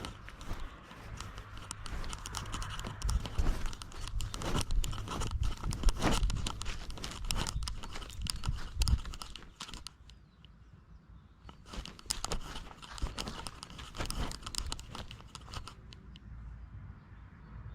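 Cat scratching and digging in loose ground, heard close up from a camera strapped to its body: a dense run of short scratches and crunches, busiest in the first half and thinner and quieter from about ten seconds in.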